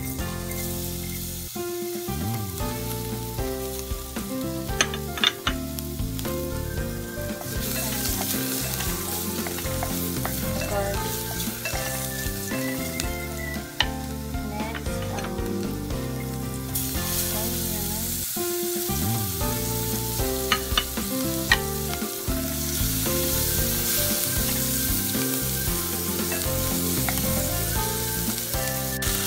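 Chopped garlic and onion frying in melted margarine in a glass pot, a steady sizzle that grows stronger after the first several seconds, with a few sharp clicks against the pot.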